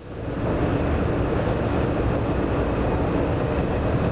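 Steady running noise inside the passenger car of a Hanshin 1000 series electric train under way, a dense rumble of wheels on rail and car noise. The sound drops out briefly at the very start and comes back within half a second.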